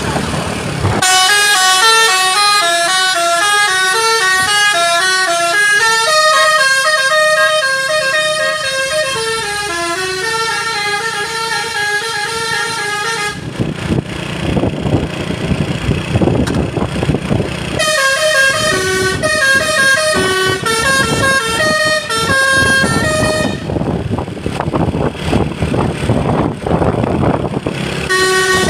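Basuri multi-tone musical horn on a Fuso truck playing a melody of short stepping notes. The tune breaks off twice for a few seconds of rough noise, then starts again.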